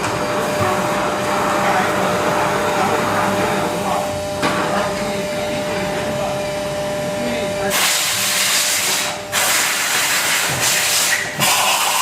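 Injection molding machine running, a steady mechanical din with a constant hum. About two-thirds of the way in it turns into a loud hiss, broken off briefly twice.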